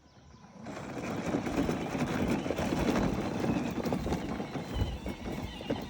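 A small vehicle driving off over rough ground: a steady, rough, crackly rumble that starts just under a second in.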